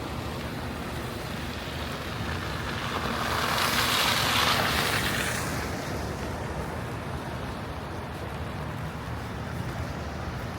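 Snowstorm city-street ambience: a steady hiss of wind and traffic, with one louder hiss swelling and fading over a few seconds about four seconds in.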